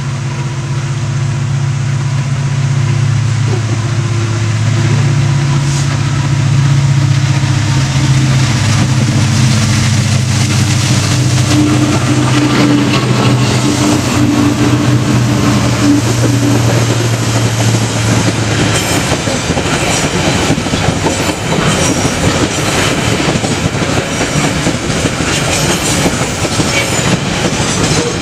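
A diesel-hauled coal train passing: a steady low engine hum at first, then, about two-thirds of the way through, the hum drops away and the loaded coal wagons roll by with a dense rumbling clatter of wheels over the rails.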